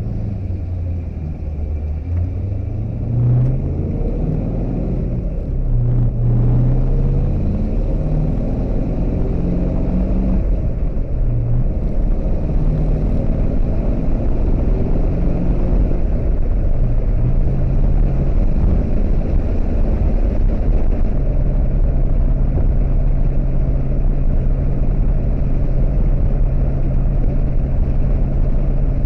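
1979 Pontiac Trans Am's Pontiac 400 V8 running under way. Its note rises and falls in pitch several times, then settles to a steady note for the last several seconds.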